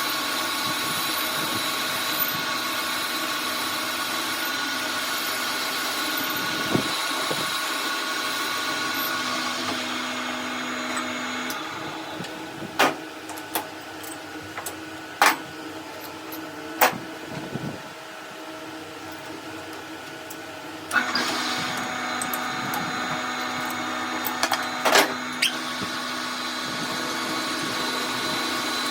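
An electric workshop machine runs with a steady hum. It drops away about eleven seconds in, while several sharp metal knocks and clinks sound. It starts up again about twenty-one seconds in, with a few more knocks soon after.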